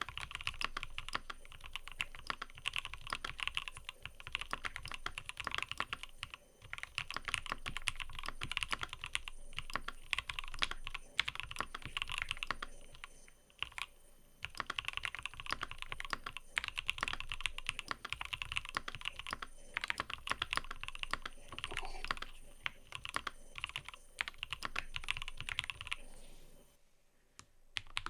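Fast, continuous typing on a mechanical keyboard: rapid key clicks with brief pauses every few seconds, stopping near the end.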